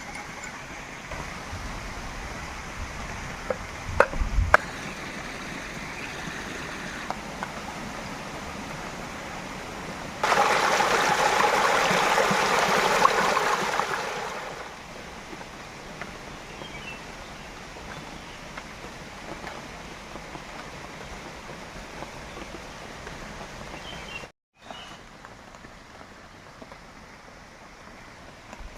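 Steady rush of running water, with a much louder surge of water for about four seconds around ten seconds in. A few sharp knocks sound near four seconds in.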